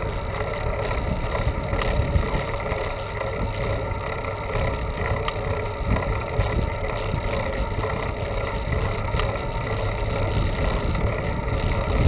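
Steady riding noise from a bicycle on a paved road: wind rumble on the microphone mixed with tyre and road noise, with a few faint ticks.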